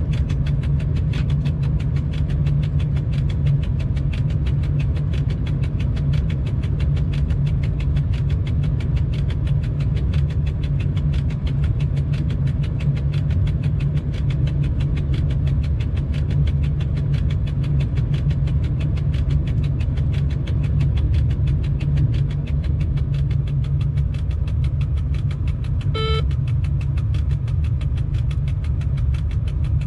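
Steady low rumble of an electric freight locomotive running along the line, heard inside the cab. A short beep sounds once near the end.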